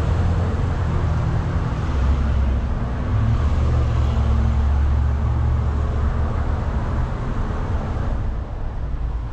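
A low motor drone over steady street traffic noise. The drone deepens and grows stronger about two seconds in and eases off a few seconds later.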